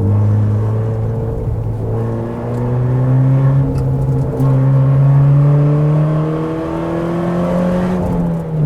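Car engine under load: it holds a steady note briefly, then climbs slowly in revs for several seconds, and the revs drop sharply near the end, as at a gear change or lift-off.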